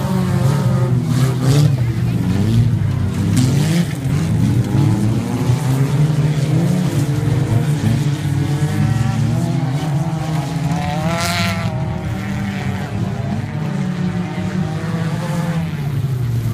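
Several banger racing cars' engines running hard around a dirt oval, their pitch rising and falling as the drivers accelerate and lift off. About eleven seconds in, one engine revs sharply higher and louder.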